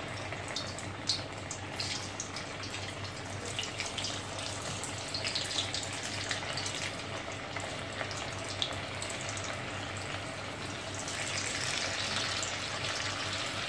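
Par-boiled, freezer-chilled potato sticks sizzling and crackling as they deep-fry in hot oil, with scattered sharp crackles as more sticks are dropped in one at a time. The sizzle grows louder and fuller about eleven seconds in.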